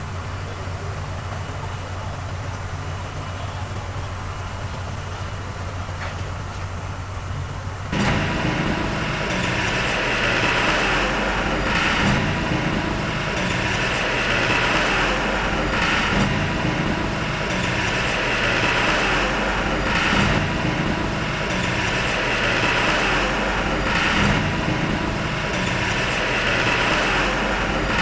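Diesel engine of heavy earthmoving machinery idling steadily. About eight seconds in, louder working machinery sound comes in abruptly, swelling regularly about every four seconds.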